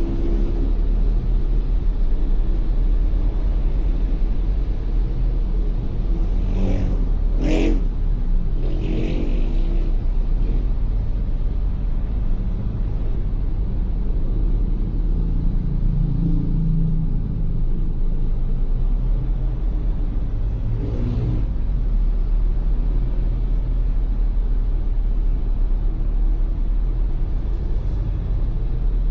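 Steady rumble of a Ford Everest SUV driving in traffic, engine and tyre noise heard from inside the cabin. Brief louder passing-vehicle sounds swell and fade about seven to ten seconds in and again about two-thirds of the way through.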